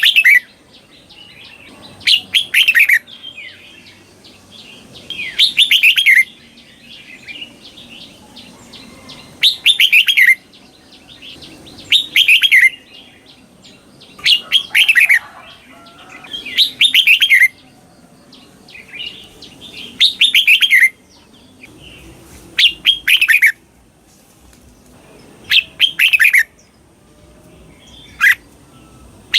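Red-whiskered bulbul singing: short, bright phrases that each fall in pitch, delivered in quick double bursts. They repeat about every two to three seconds, with softer chattering notes between them. This is the doubled song style (เบิ้ล) used to train caged bulbuls.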